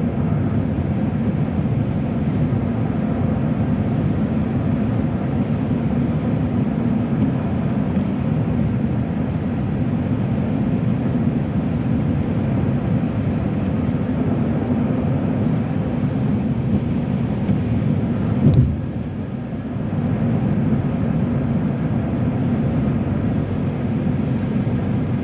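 Steady road and engine noise of a car driving at highway speed, heard inside the cabin, with one brief louder knock about eighteen seconds in.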